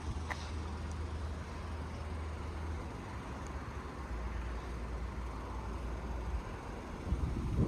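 Road vehicle noise: a steady low engine rumble over a haze of traffic sound, the rumble dropping away a little over six seconds in, with a few low thumps near the end.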